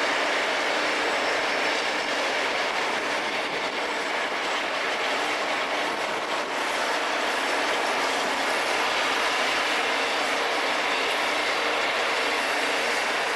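Rail grinder's grinding wheels running on the railhead as the grinding train works along the track: a steady, loud grinding noise that holds level throughout, with a few faint steady tones in it.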